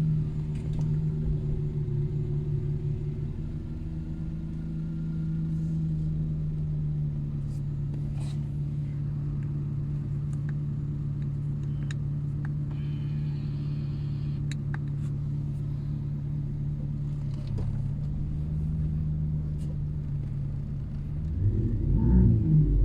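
Opel Astra's engine idling through a loud tuned exhaust, a steady deep rumble, then revved near the end.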